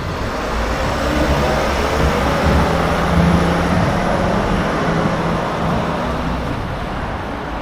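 Traffic noise: a heavy motor vehicle's engine hum and road noise swell, peaking about three seconds in, then ease off.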